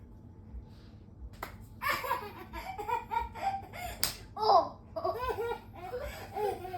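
Three-month-old baby laughing in short repeated bursts mixed with babbling, starting about two seconds in, with one sharp click or slap about four seconds in.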